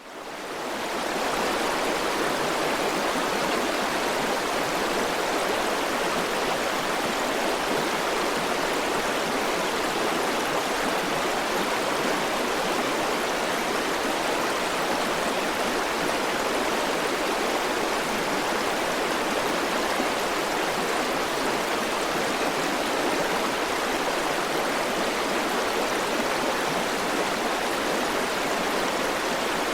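River water rushing steadily, fading in over the first second or so.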